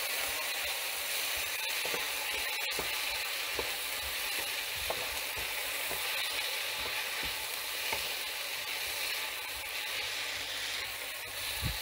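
Chopped vegetables sizzling steadily as they fry in oil in a pan. A wooden spoon stirs them, scraping and knocking against the pan now and then.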